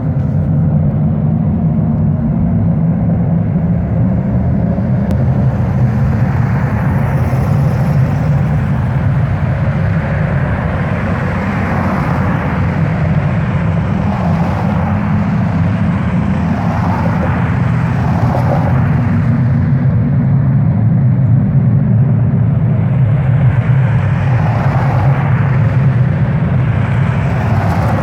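A loud, steady low rumble that runs without a break, with a fluctuating hiss above it.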